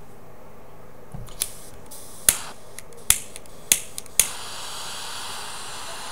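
Butane torch lighter: the ignition clicks five times and catches on the last click, then the flame burns with a steady hiss.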